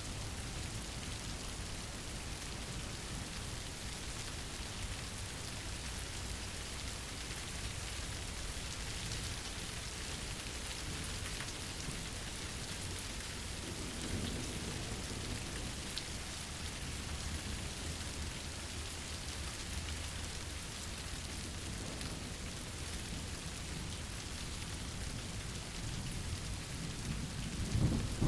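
Steady rain ambience. A low roll of thunder comes about halfway through, and a louder one starts right at the end.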